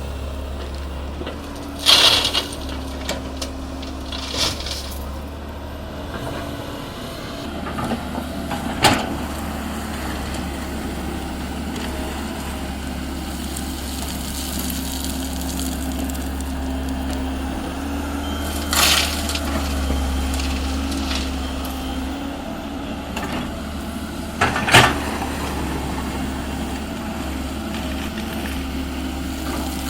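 Komatsu PC210-10 excavator's diesel engine running steadily while it loads crushed stone, broken by about five sharp knocks and crashes of the bucket and stone.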